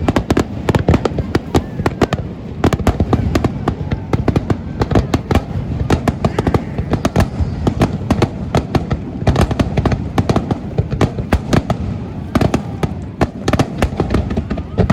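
Aerial fireworks display: a dense, continuous barrage of shell bursts, several bangs every second.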